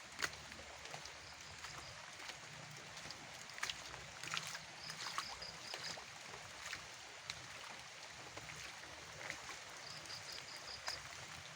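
Faint outdoor field ambience: a steady soft hiss with scattered clicks and crackles. A short run of about five quick high-pitched notes sounds three times, about a second in, near the middle and near the end.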